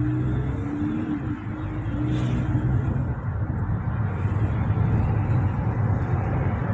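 Low, steady rumble of a motor vehicle running close by, in city traffic noise, with a faint humming tone over it for the first few seconds.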